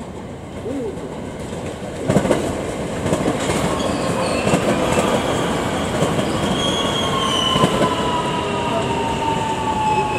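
A JR West 225-series electric train crosses station turnouts and rail joints: a rumble with repeated sharp wheel knocks that begins about two seconds in, and a long high whine that slowly falls in pitch through the second half.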